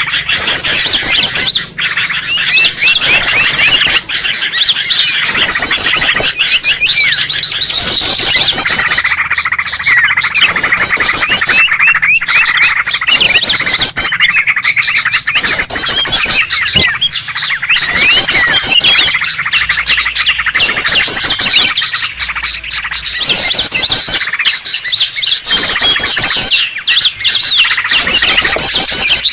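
Green leafbird (cucak ijo) giving noisy, agitated chattering song: dense, rapid high chirps and trills, loud and nearly continuous, in bouts broken by brief gaps.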